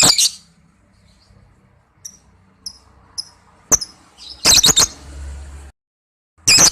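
Lovebird calling with short, harsh, shrill screeches: a burst at the start, a double burst about four and a half seconds in, and another at the end, with a few soft high chirps between.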